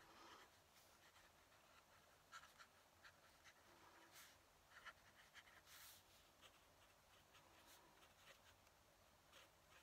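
Faint scratching of a fountain pen nib writing on paper, in short, irregular strokes.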